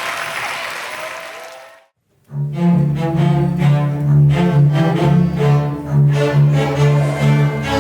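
Applause dies away over the first two seconds, then, after a brief dead silence, a string orchestra starts playing, with cellos and basses sounding strong, low sustained notes under the higher strings.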